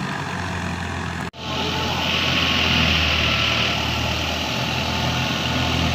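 Heavy farm-machine engine running steadily at a low, even hum. The sound cuts out for an instant about a second in, then the engine carries on with a hiss over it.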